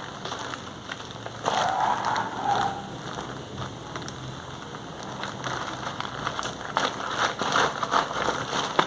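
Packaging being handled during unboxing: irregular rustling and crinkling, with crackles that grow busier in the second half.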